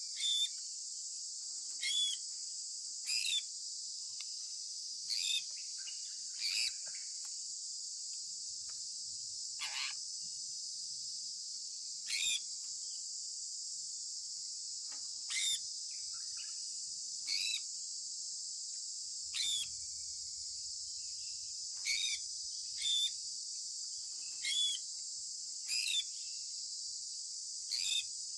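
Sun conure parrot giving short, sharp chirps, one every one to three seconds, some sliding down in pitch. A steady high-pitched insect chorus runs beneath.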